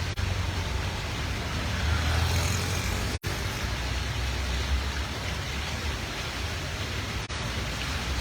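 Steady street noise after rain: rainwater running in a roadside gutter under a low traffic rumble. The sound drops out briefly twice, about three and about seven seconds in.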